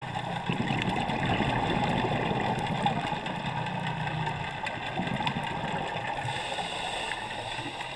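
A boat's engine running steadily, a continuous low drone.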